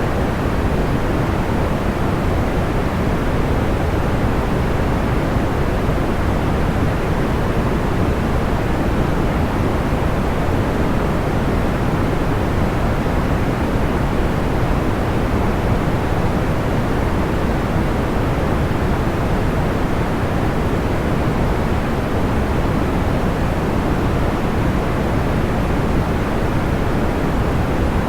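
Steady, unchanging sleep noise weighted toward the low end, a soft even hiss with no separate crackles or pops.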